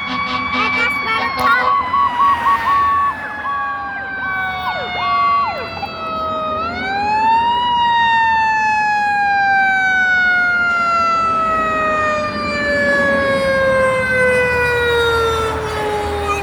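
Fire truck siren with a slowly falling wail, wound back up about seven seconds in and then dropping slowly again, with a series of short horn blasts in the first few seconds.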